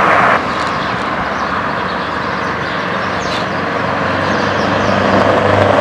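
Scania R620's V8 engine through a straight-piped exhaust, running loudly with a broad rush of noise. The sound drops sharply about half a second in, then builds again as a low engine note comes up near the end.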